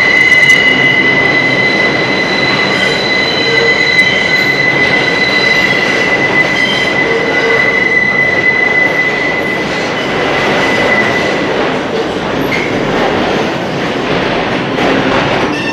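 Train running past with a steady high-pitched wheel squeal over the rumble of wheels on rail; the squeal fades out about eleven seconds in, leaving the rolling noise.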